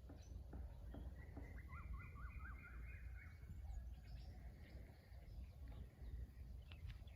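Birds calling: a run of short chirps and a quick wavering whistled phrase about a second or two in, with scattered fainter calls, over a steady low rumble.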